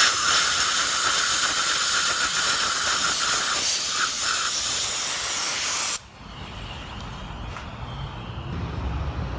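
Aerosol cleaner spraying in a steady hiss onto a two-stroke weed eater's piston to wash off carbon deposits. It runs for about six seconds, then stops abruptly.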